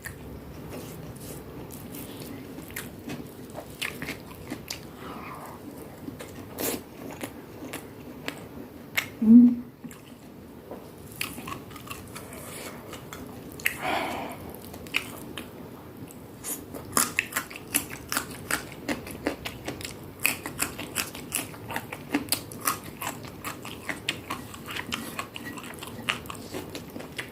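A person chewing and biting crunchy food close to the microphone: many short crisp crunches, coming thick and fast in the second half. A brief low hum about nine seconds in.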